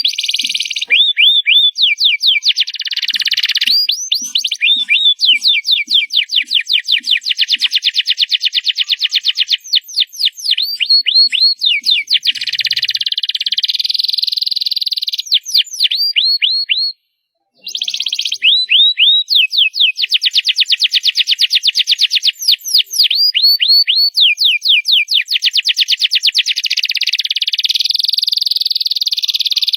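Domestic canary singing loud, a continuous song of fast rolling trills and quickly repeated high sweeping notes. The song stops abruptly for under a second a little past halfway, then resumes.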